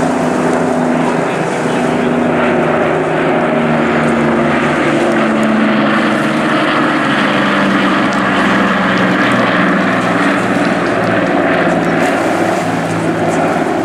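Vintage piston-engined propeller aircraft in flight, a loud, steady engine drone whose pitch slowly falls.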